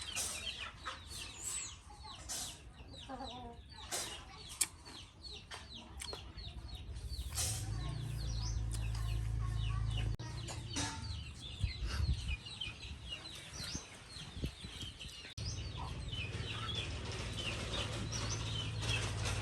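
Chickens clucking, with many short high chirps and scattered clicks.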